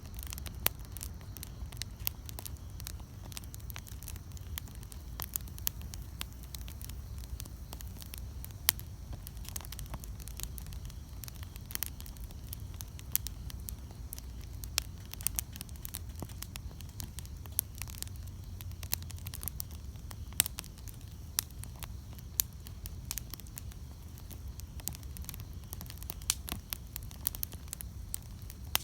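Wood campfire burning, with constant irregular crackling and occasional louder pops over a low steady rumble.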